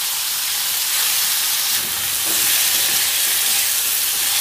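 Soaked sprouted moong beans frying in hot peanut oil with curry leaves and turmeric in a steel pan: a steady sizzling hiss that grows louder about two seconds in.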